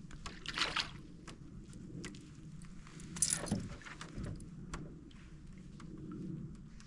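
Canoe paddle strokes in water: two splashing swishes about three seconds apart, with scattered light clicks and knocks in between.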